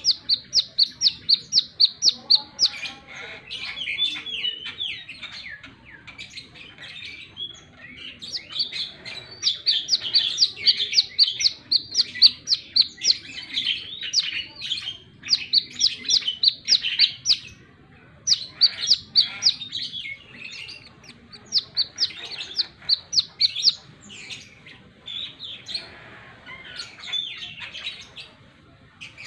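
Brown-throated sunbird singing: bouts of fast, sharp, high chirps, about six a second, mixed with lower twittering notes and broken by short pauses.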